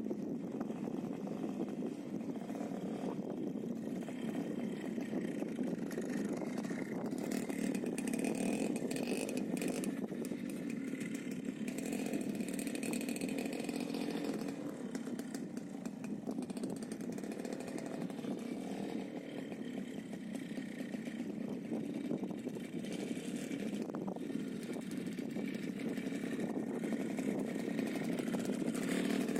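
Minsk motorcycle's single-cylinder two-stroke engine running steadily, its note wavering slightly up and down.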